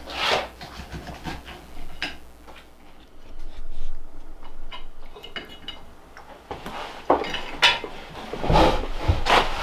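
Dishes and metal utensils clinking and knocking in a series of light, irregular knocks, busier near the end.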